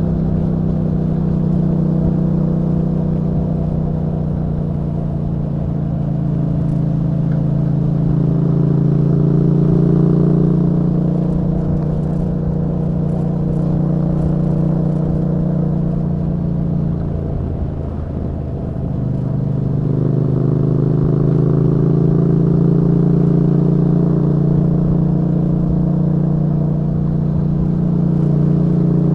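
A 2021 Yamaha MT-07's parallel-twin engine running under way through an Akrapovic exhaust. About two thirds of the way through the note drops and quietens briefly as the throttle is eased, then climbs back and runs on steadily.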